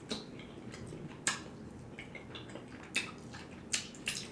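Close-miked eating: quiet chewing with four short, sharp wet mouth clicks and smacks spread over the few seconds.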